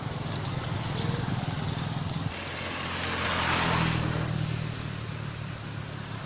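A motor vehicle engine running steadily, its pitch dropping about two seconds in, with a swell of noise around the middle as it passes.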